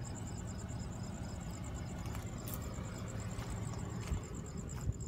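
2016 Dodge Challenger SXT's V6 idling steadily with a low hum. Crickets chirp over it in a fast, even, high-pitched pulse.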